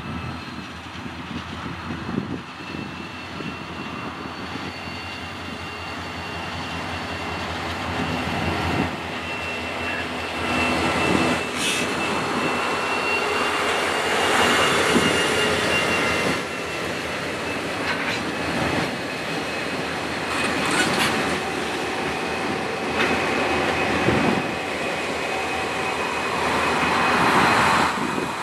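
A grain train's diesel locomotives passing close by with engines running, followed by a line of hopper wagons rolling past with steady wheel-on-rail rumble. Occasional sharp clicks from the wheels and a thin steady high whine.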